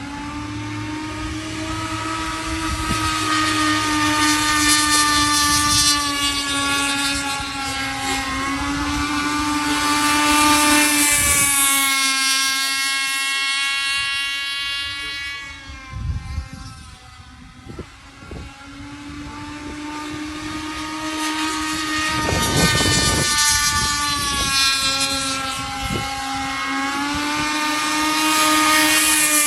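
Model speedboat's Redline 35cc gas engine running at speed, a high engine whine that rises and falls in pitch and loudness as the boat runs toward and away. It drops off for a few seconds around the middle, then builds again toward the end.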